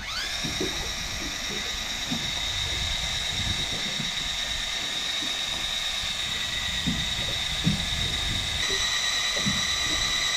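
Electric fishing reel motor starting up and winding in line: a whine that climbs sharply in pitch about the first half second, then holds steady and high, over low knocking and rumble from the boat.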